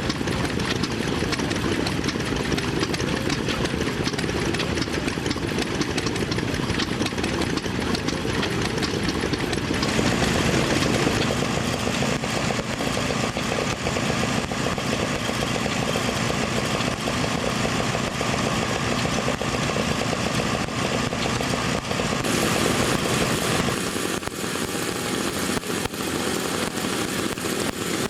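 Old engines and machinery running steadily. The sound changes abruptly about ten seconds in and again near the end, as one running machine gives way to another.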